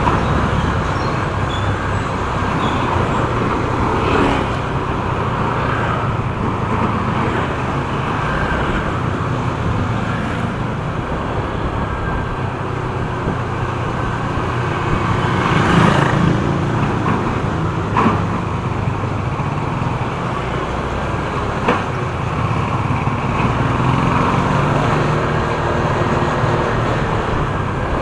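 Motor scooter being ridden through traffic: steady engine drone with road and wind noise, and a few brief sharp knocks along the way.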